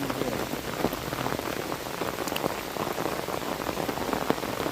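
Heavy rain falling steadily, with a dense stream of small, sharp drop hits close by, as on umbrella fabric.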